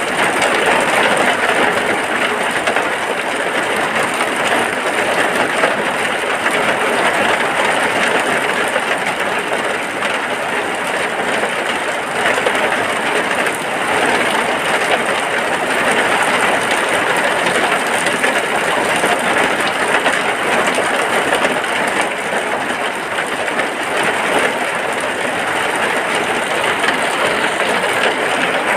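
Steady rain falling on a hut, heard from inside as an even, unbroken hiss.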